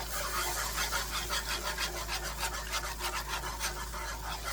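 Wire whisk beating chicken broth into a flour-and-butter roux in a large skillet: quick, even swishing and scraping strokes, about four a second, as the gravy is whisked smooth without lumps.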